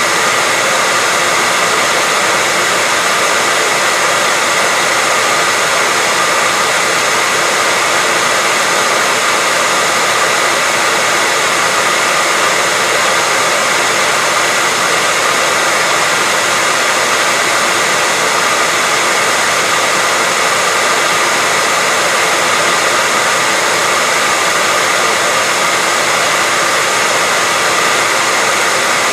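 Hair dryer blowing steadily: an even, unchanging rush of air with a faint whine from the fan motor.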